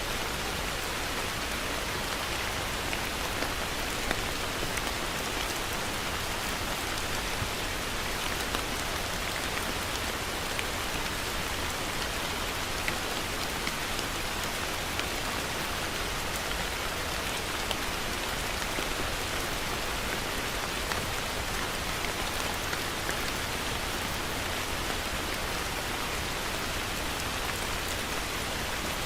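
Steady heavy rain falling on a surface, an even hiss with scattered sharper drop hits.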